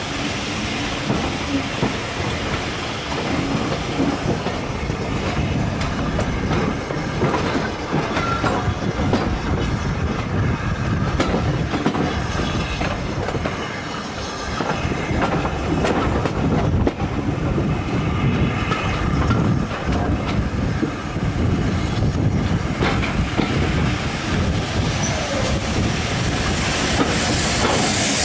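Running noise of a passenger train heard from an open carriage window: wheels clattering over rail joints, with a few brief thin wheel squeals. Near the end a steam locomotive passes close alongside on the next line, adding a brighter rush of sound.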